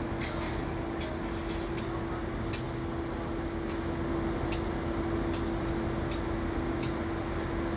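A commuter train standing at a platform gives a steady machinery hum with one held tone in it. Short, sharp high ticks repeat at an even pace of a little more than one a second.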